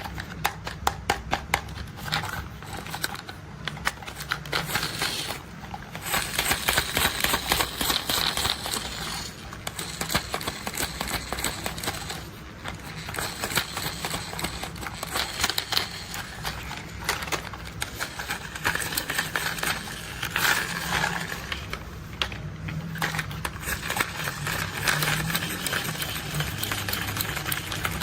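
Rapid, dense clicking and rattling of plastic toy construction vehicles being handled and worked, with short pauses now and then.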